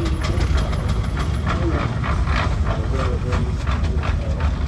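Steam traction engine running past, its exhaust chuffing in a quick, even rhythm of about three or four beats a second over a low rumble.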